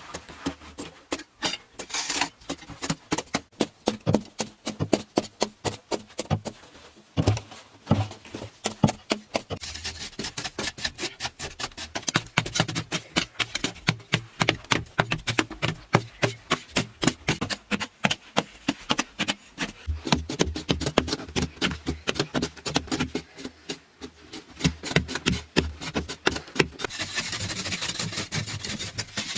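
Hand tools scraping and striking in quick repeated strokes, several a second, keeping up steadily throughout.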